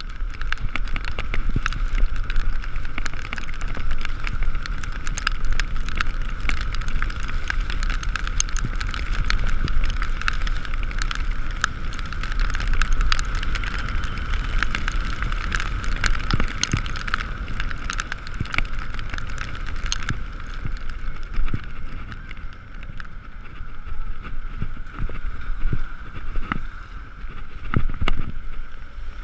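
Ekoway ML5000 electric scooter riding on a wet road in rain: a steady high whine from the drive, with wind noise and tyre spray underneath and many small ticks and knocks throughout.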